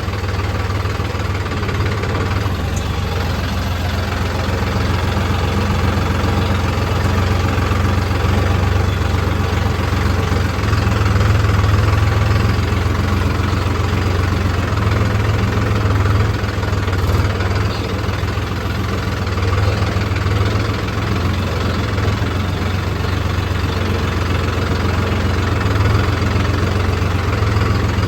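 Heavy diesel engine running steadily at low revs, with a deep hum and a few small swells in level.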